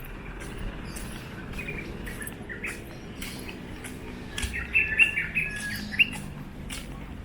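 Birds chirping: a few short chirps about two seconds in, then a quick run of louder chirps near the middle to late part.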